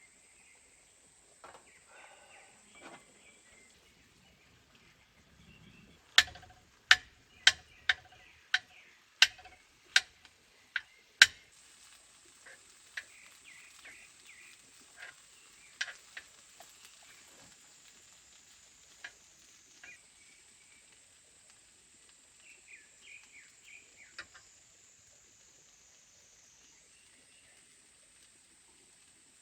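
A run of about eight sharp knocks, evenly spaced at roughly one and a half a second, over a steady high insect drone that shifts pitch a few times, with scattered bird chirps and a few fainter clicks.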